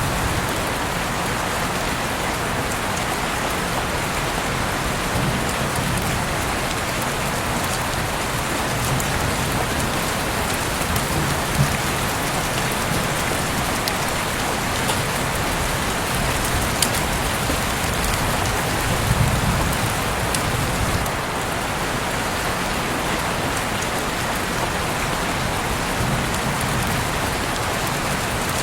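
Heavy rain pouring steadily, a dense even hiss with scattered sharper drops and drips.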